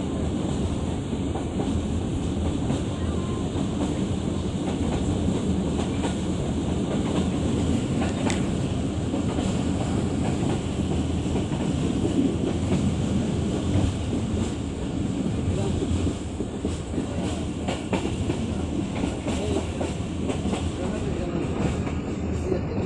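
Moving train running on the rails: a steady low rumble with the clickety-clack of the wheels over the rail joints.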